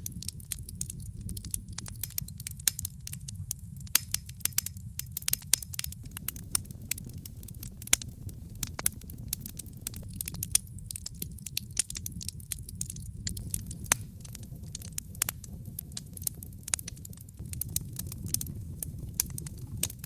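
Wood fire burning in a fireplace: a steady low rumble under many irregular sharp crackles and pops.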